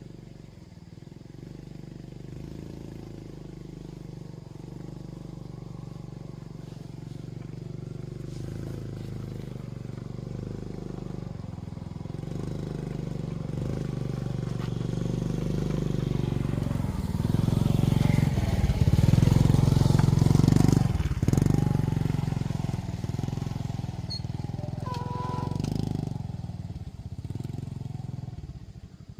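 Motorbike engine running, growing steadily louder to a peak about two-thirds of the way through, then fading as it moves away.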